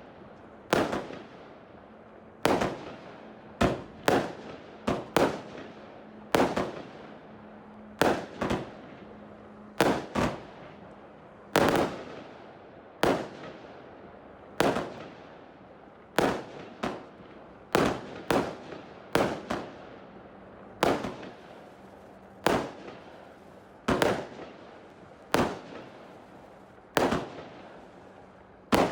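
A 161-shot compound firework cake (Empire State Show) fires shot after shot, a sharp bang roughly every second, sometimes two in quick succession, each trailing off in an echo.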